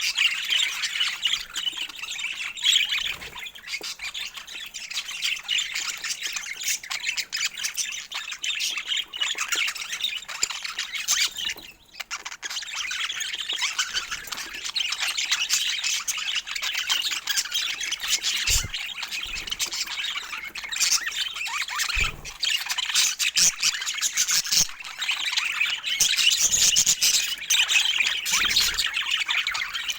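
Budgerigars chattering and squawking continuously in quick short notes, with a brief lull about twelve seconds in and a few soft low thumps in the second half.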